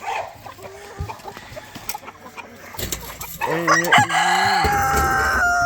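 Rooster crowing: one long crow starts about three seconds in, is held for over two seconds and drops in pitch at its end. Before it, scattered short clucks from the flock.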